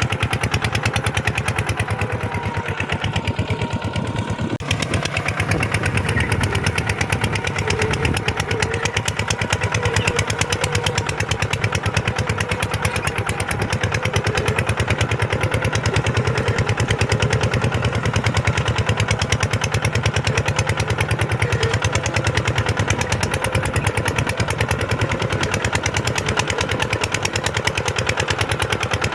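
Kubota tractor's diesel engine running steadily with a fast, even beat.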